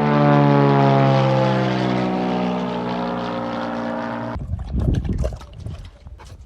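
A motor running with a steady, pitched hum that slowly falls in pitch and stops abruptly about four seconds in, followed by irregular knocks and rustling.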